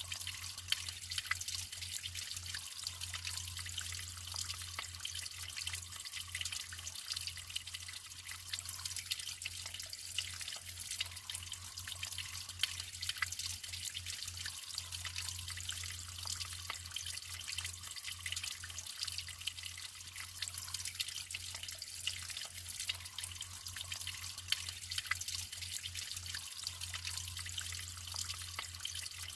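Natural water trickling and dripping steadily, with many small drops splashing over a continuous flow and a steady low hum underneath.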